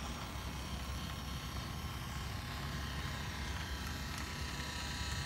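Model New York City Subway A train running along its layout track: a steady running noise with a low hum.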